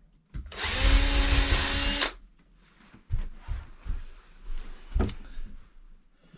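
A power drill runs for about a second and a half while trim is being fastened, followed by several light knocks and handling sounds.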